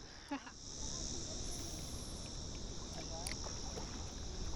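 Outdoor ambience: a steady high-pitched insect drone over a low wash of water and wind noise, with a few faint short sounds.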